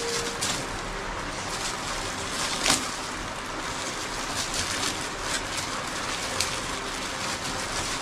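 Steady rain, a continuous hiss, with a few sharp taps scattered through it; the sharpest comes a little under three seconds in.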